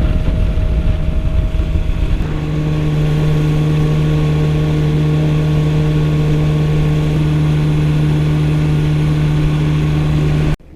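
Yamaha WaveRunner FX HO jet ski engine running at a steady cruising speed under way on the water, holding an even pitch. It cuts off suddenly near the end.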